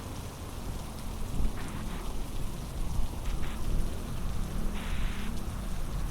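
Heavy rain falling steadily, with a low rumble underneath and a few short, brighter bursts of noise.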